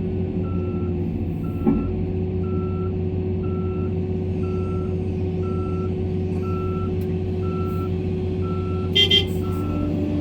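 Articulated dump truck backing up, its reverse alarm beeping about once a second over the steady drone of the excavator's diesel engine. There is a single knock early on and two brief loud blips near the end.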